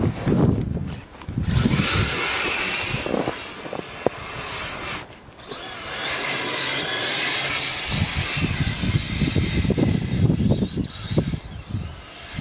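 RC snowcat's two brushless motors whining as it drives, the pitch wavering up and down with the throttle, briefly dropping off about five seconds in. Wind rumbles on the microphone at the start and near the end.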